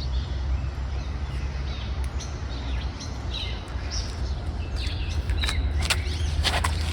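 Birds chirping in short calls over a steady low rumble of wind on the microphone.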